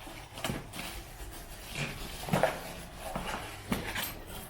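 Parts of a bicycle engine kit being handled: scattered light knocks, clicks and rustling, a few each second.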